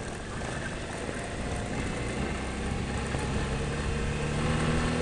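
Motorcycle engine running under way over a rocky dirt road, with wind and road noise, getting a little louder toward the end.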